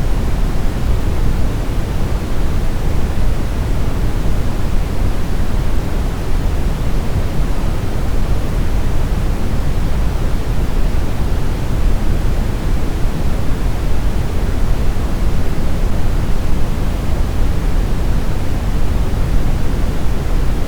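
Steady, unbroken brown noise: an even, deep rushing hiss with most of its energy in the low end, without change or events.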